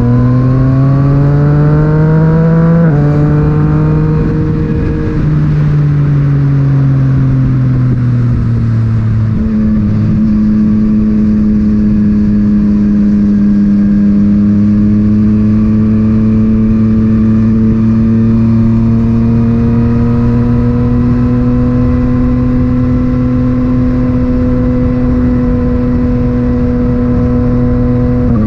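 Yamaha MT-09's inline three-cylinder engine through an Akrapovic titanium exhaust, heard from the bike while riding: it pulls up in revs for about three seconds, drops sharply at a gear change, eases off with falling pitch, then settles into a steady drone that climbs slowly in pitch.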